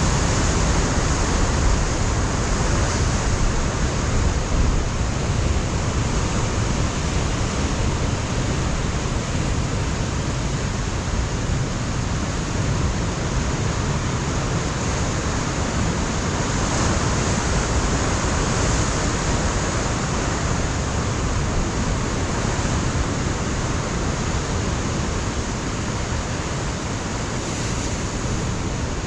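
Pacific surf washing and breaking against a rocky shoreline in a steady, continuous roar of noise, with wind on the microphone, easing slightly toward the end.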